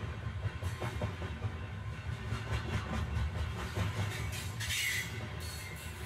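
Steam train sound effect: a steady low rumble with a short hiss about three-quarters of the way through.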